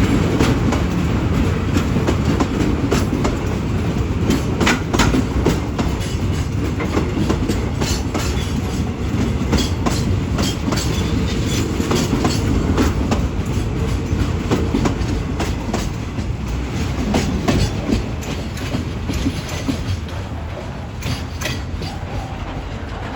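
Long train of railway oil-tank wagons rolling past with a heavy rumble, the wheels clacking repeatedly over rail joints. It grows quieter over the last several seconds.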